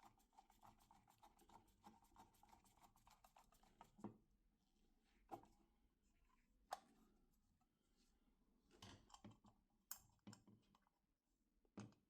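Faint fast clicking, about ten clicks a second for the first four seconds, then a handful of separate light knocks: small hard parts being handled or worked.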